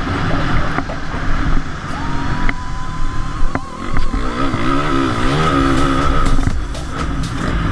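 Motocross dirt-bike engines revving up and down, the pitch rising and falling quickly as the throttle is worked.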